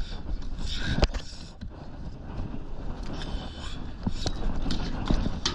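Wind rumbling on the microphone aboard a small fishing boat rocking in rough sea, with scattered knocks and clicks from the boat and gear.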